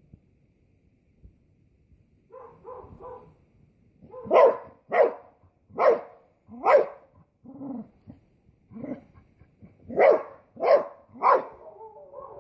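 A dog barking defensively at a snake: after a few soft woofs, a string of loud, separate barks about half a second to a second apart.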